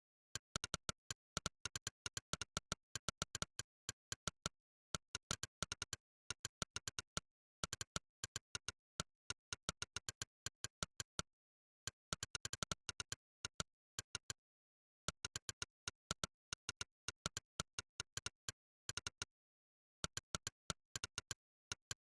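Monkeytype's 'click' typing sound effect: a short, sharp synthetic click for every keystroke, coming in quick irregular runs of several a second with brief pauses between, and dead digital silence between clicks.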